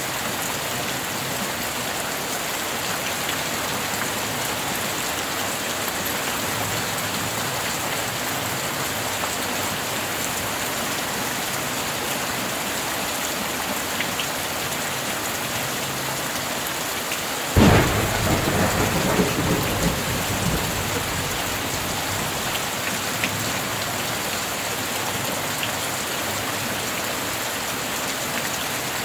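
Steady rain falling, with a single thunderclap a little past halfway: a sudden sharp crack followed by a rumble that dies away over about three seconds.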